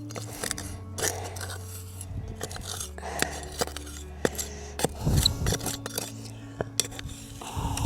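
Repeated small clinks, knocks and scrapes of metal screws and hand tools being handled during a screw-fixing repair.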